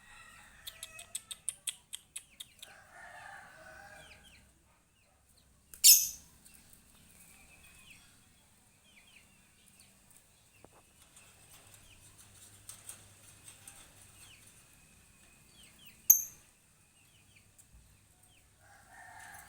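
A bird calling: a quick run of sharp clicks, then a loud harsh call about six seconds in, soft repeated chirps through the middle, and another loud call right at the end. Its voice is loud.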